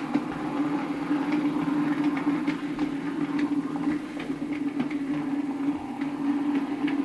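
Bachmann OO gauge Class 47 model locomotive running on the track: a steady motor hum with irregular light clicks of the wheels over rail joints.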